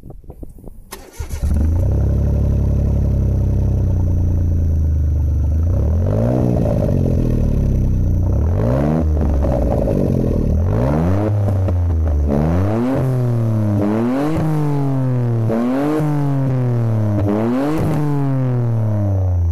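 Suzuki Alto Works three-cylinder turbo kei car engine starting about a second in, idling steadily, then revved again and again in short blips that come faster towards the end. It runs through an HKS Power Getter muffler with a straight pipe in place of the catalytic converter.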